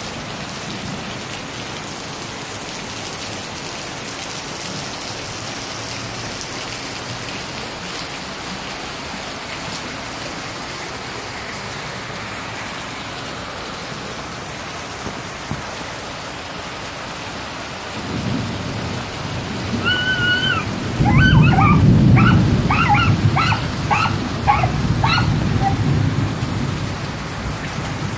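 Heavy tropical-storm rain pouring steadily on flooded ground and zinc roofs. About two-thirds of the way in, a deep rumble builds and grows loud, fitting thunder. Over it comes a string of short high calls, about three a second, from an animal.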